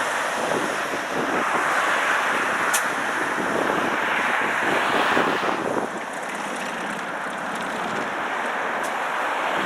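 Steady rushing noise of a vehicle driving on a snowy road: tyre and wind noise, easing slightly a little past halfway.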